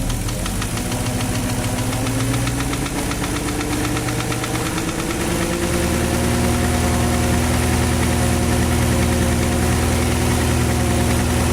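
Porsche Cayenne 4.5-litre V8 (M48.00) engine running, its revs slowly rising over the first few seconds and then held steady, with a fast knock from inside the engine. The knock is the fault the engine is being run to show.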